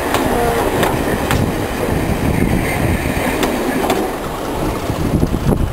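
Mk1 railway carriage running along the track, heard from an open window: a steady low rumble of wheels on rail with several sharp clicks as the wheels cross rail joints.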